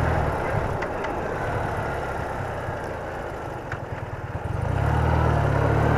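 BMW R80RT's air-cooled flat-twin engine running on the road with wind noise. The engine note fades and drops about four seconds in, then comes back stronger near the end as the bike pulls again.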